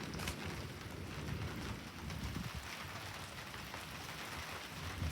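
Heavy rain falling steadily, with a low rumble underneath and a few sharp drop hits near the start and near the end.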